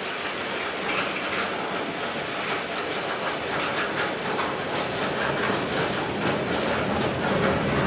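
Freight train boxcars rolling past: a steady rumble of steel wheels on the rails with repeated clicking over the rail joints, growing a little louder near the end.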